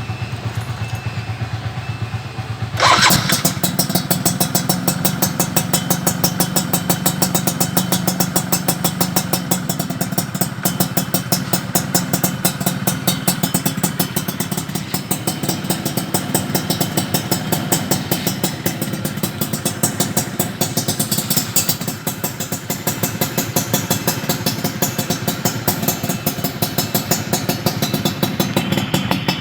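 Suzuki RC100's two-stroke single-cylinder engine running through an aftermarket exhaust. It ticks over steadily at first, then suddenly gets louder about three seconds in and keeps running at that higher level with a fast, even beat of exhaust pulses.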